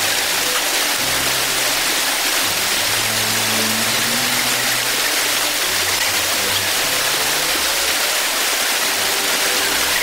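Steady rushing water, like a stream or waterfall, with low held music notes that change every second or so underneath.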